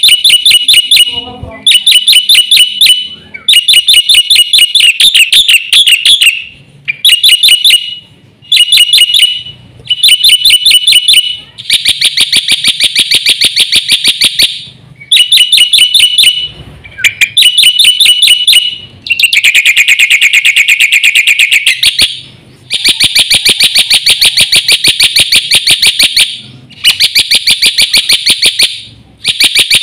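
Black-winged myna (jalak putih) singing vigorously: repeated bursts of rapid, rattling trills, each lasting one to three seconds, with short pauses between them.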